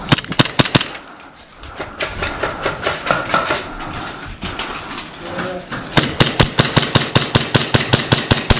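Airsoft rifles firing rapid strings of shots, about ten a second: a short burst at the start, scattered shots through the middle, and a long fast string over the last few seconds.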